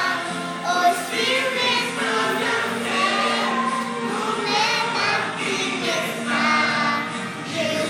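Christian song: several voices singing a melody, with vibrato on the held notes, over a steady instrumental accompaniment.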